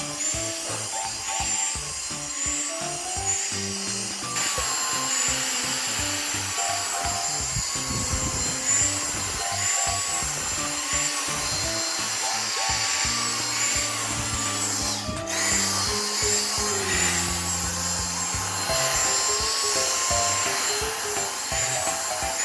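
A vacuum cleaner running with a motor whine that wavers in pitch, under background music.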